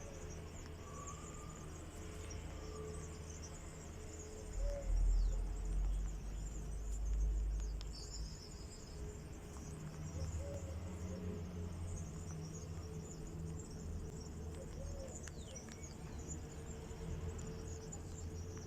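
Dense, high-pitched chirping of many small birds, with quick little downward-sweeping calls among them. Under it runs a low rumble that swells loudest a few seconds in.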